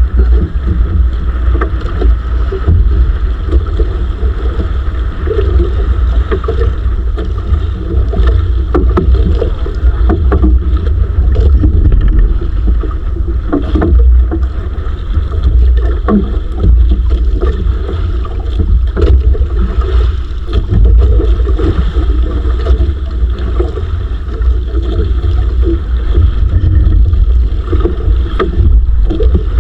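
Bangka (outrigger fishing boat) under way on the sea: a loud, steady rumbling drone with wind and water noise and many small knocks over it.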